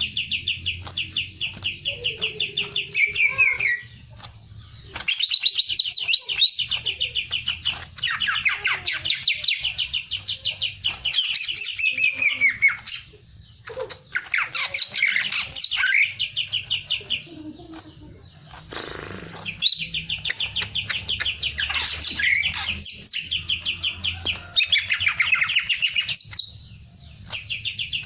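A songbird, kept as a cage bird, singing energetically in long runs of rapid, trilled notes. The phrases are broken by a few short pauses.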